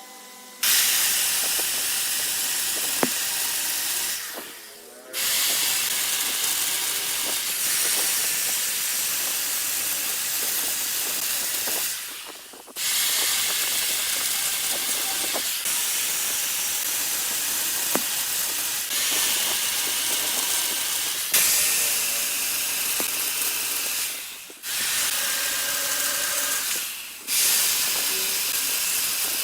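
Hand-held turning tool cutting wood spinning on a big lathe. It makes a steady, loud hiss in long passes, with short breaks when the tool is lifted, about four times.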